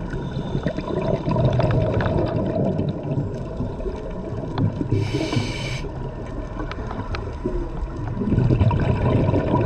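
Scuba diver's regulator breathing heard underwater: a short hiss of inhalation about five seconds in, between two spells of exhaled bubbles rumbling and gurgling.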